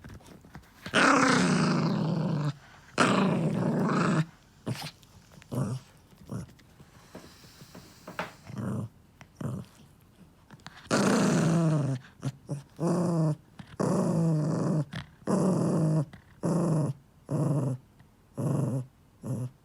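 Pomeranian growling over its food: two long growls in the first few seconds, then after a pause a run of shorter growls, one after another. It is warning off being disturbed while it eats.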